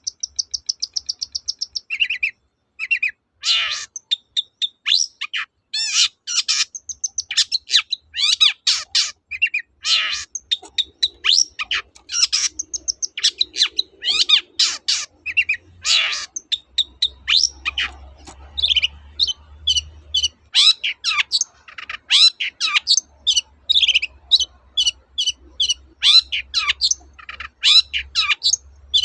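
Long-tailed shrike (cendet) singing a rapid, varied song. It opens with a fast ticking trill, then runs into a dense string of short, sharp notes, many falling steeply in pitch.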